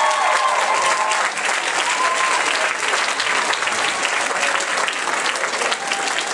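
Audience applauding, with shrill cheers and whoops dying away in the first second or so, then steady clapping.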